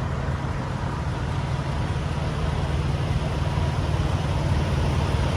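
Semi-truck diesel engine idling steadily, a low even rumble that grows slightly louder toward the end.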